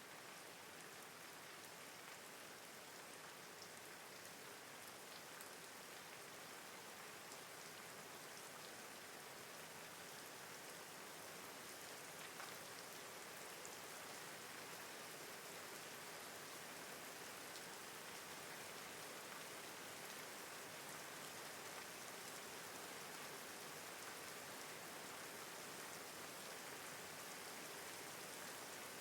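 Steady, faint rain falling, an even hiss with scattered ticks of individual drops.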